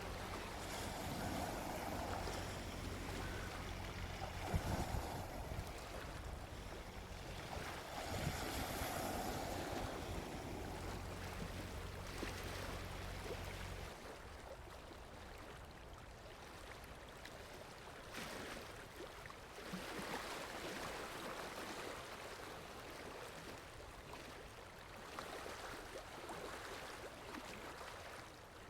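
Gentle sea waves washing onto a beach, swelling and easing every few seconds. A low rumble under them stops abruptly about halfway through.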